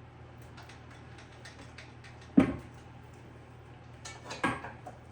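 Light clicks and knocks from kitchen utensils and bakeware being handled, with one sharp loud knock about two and a half seconds in and a few more knocks near the end, over a steady low hum.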